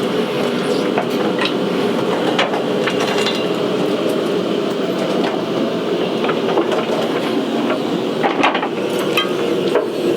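Opal-mine blower (the truck-driven vacuum that sucks dirt up to the surface) running, a loud steady rushing roar through the underground drive, with scattered sharp clicks and knocks over it.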